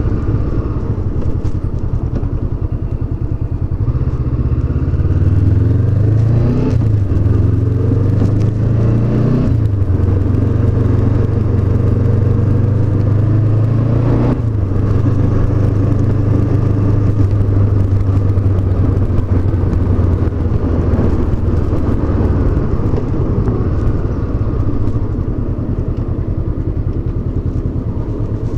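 Honda CB500X's parallel-twin engine accelerating through the gears while riding: the note climbs in pitch, drops at each of three upshifts, then settles into a steady cruising note that eases off a little near the end.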